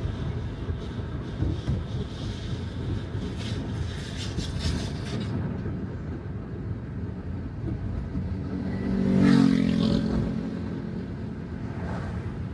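Steady low rumble of car tyres on a wet road, with a splashy hiss in the first few seconds. About nine seconds in, another vehicle's engine passes close, swelling and fading.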